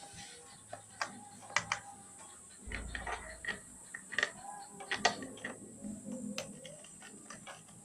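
Irregular light clicks and knocks, about a dozen, with a brief low rumble about three seconds in and a faint steady high hiss underneath.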